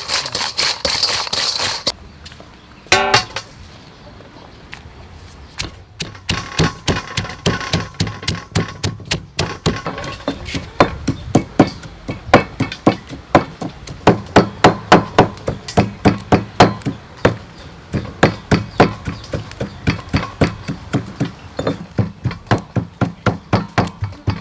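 Kitchen utensil striking repeatedly and evenly, about three to four sharp knocks a second, starting about six seconds in, after a short hissing stretch at the start.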